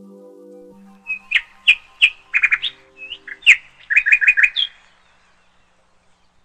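A bird chirping in a string of short, sharp calls, some in quick runs of four or five, for about four seconds, then stopping.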